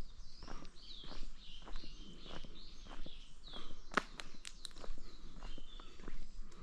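Footsteps at a steady walking pace, about two steps a second, on a forest path, with a few sharp clicks about four seconds in. Birds call throughout in repeated short, high, downward-sweeping notes.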